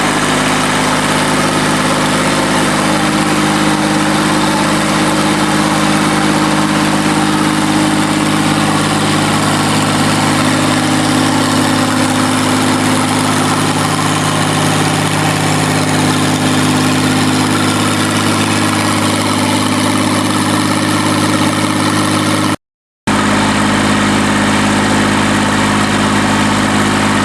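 QC385 diesel engine of a stationary diesel drive running steadily at a constant speed, with a slight shift in pitch around the middle. There is a brief gap of silence about 23 seconds in.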